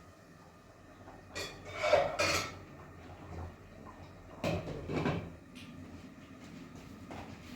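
Hard objects clattering and clinking in two short bursts, about a second and a half in and again about four and a half seconds in, much like dishes being handled.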